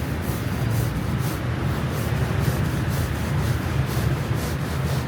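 Rhythmic sanding strokes, about two a second, over a steady low hum.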